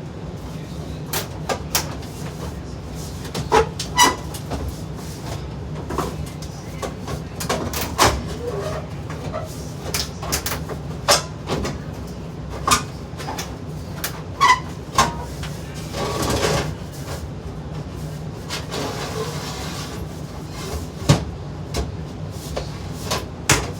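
Irregular metal clicks and knocks of furnace sheet-metal parts and screws being handled as the flue is taken off, over a steady low hum. There is a longer scraping noise about sixteen seconds in.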